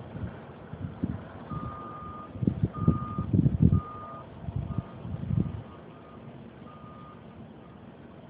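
A vehicle's reversing alarm beeping about once a second, fainter in its later beeps. Wind buffets the microphone in gusts through the first five seconds or so.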